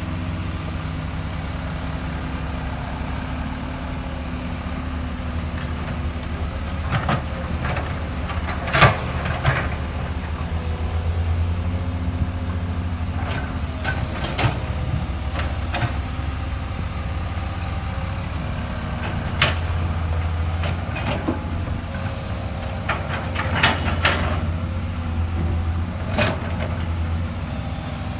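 Excavator's diesel engine running steadily, working harder at times, with scattered sharp knocks and clanks from the digging.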